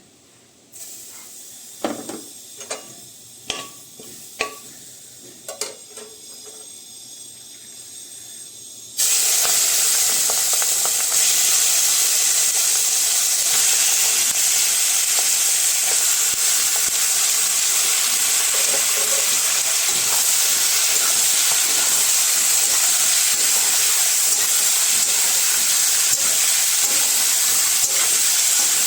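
A few light knocks of utensils, then about nine seconds in a loud, steady sizzle starts as food goes into hot oil in a pan and keeps frying.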